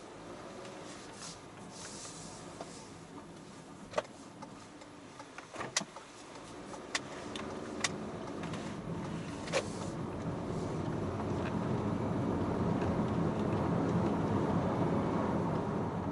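Several sharp clicks and knocks, then a vehicle's steady rumble that swells over the last several seconds and stays loud.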